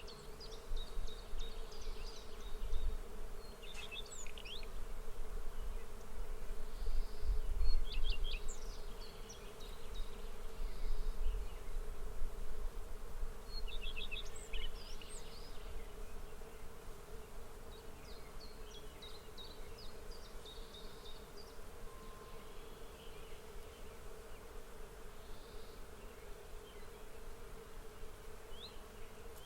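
Insects buzzing steadily in a field, with clusters of short high chirps every few seconds. Low rumbling gusts come in the first half, loudest around eight seconds in.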